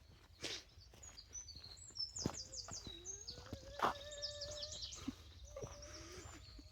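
Small birds singing: quick, high trills and chirps, with a few sharp knocks and a faint steady hum underneath.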